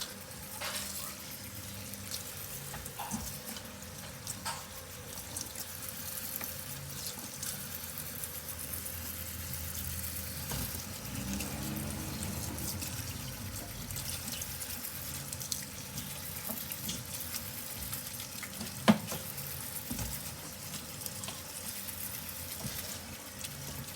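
Water from a kitchen tap running into a sink as lettuce leaves are rinsed under it, with small splashes and clicks. One sharp knock about 19 seconds in.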